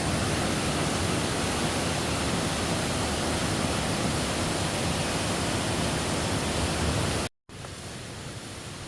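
Steady rushing of a waterfall. About seven seconds in, the sound cuts out for a moment and comes back quieter.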